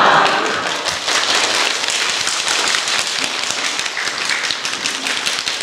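An audience clapping steadily, loudest at the start.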